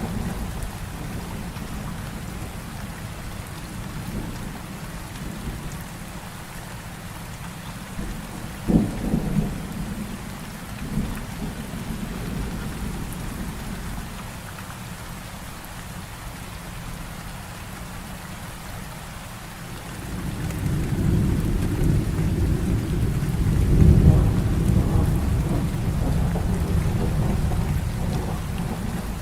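Heavy rain falling steadily during a thunderstorm. A sharp thunder crack comes about nine seconds in, and a long rolling rumble of thunder builds from about twenty seconds in, loudest a few seconds later, then slowly fading.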